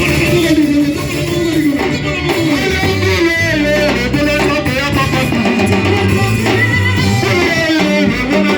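Band music with guitar over a bass line and drums, playing steadily throughout.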